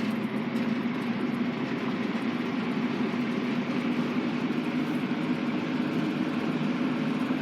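Restored 1950s Eskimo box fan, a one-speed motor slowed by a choke coil on the switch, running steadily on its low setting: an even motor hum under a steady rush of air from the blades.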